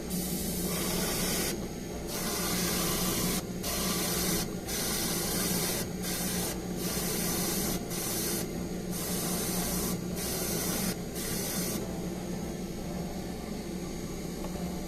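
Airbrush hissing in about ten short bursts with brief gaps, stopping about twelve seconds in, over a steady low hum.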